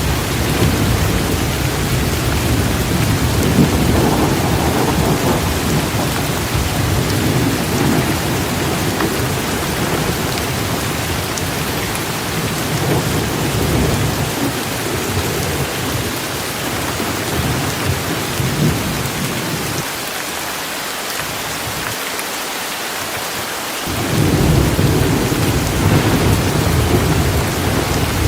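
Heavy rain hissing steadily, with thunder rumbling low underneath. The rumble dies away about twenty seconds in and rolls back in a few seconds later.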